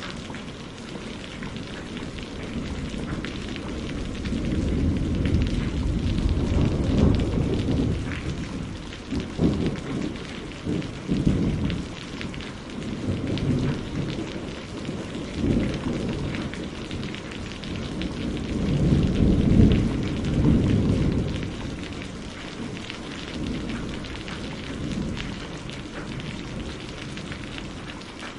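Steady rain pattering on a greenhouse roof, with a long roll of thunder rumbling, swelling and fading over most of the middle, loudest about two-thirds of the way through.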